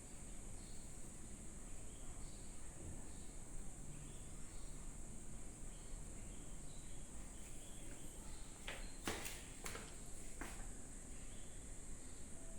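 Quiet background with a steady high-pitched hiss, and a few short clicks about nine to ten seconds in.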